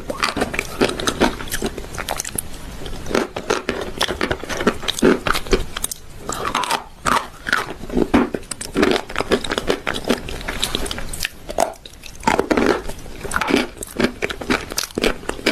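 A person biting and chewing chalk eaten with a paste: dense, irregular sharp crunches mixed with chewing.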